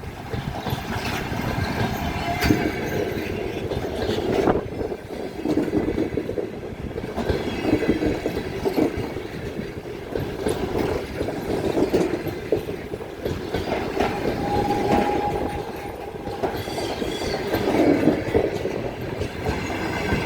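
Passenger coaches of a departing train rolling past at low speed, wheels clattering over the rail joints with irregular knocks and a steady rumble. A short thin squeal comes partway through.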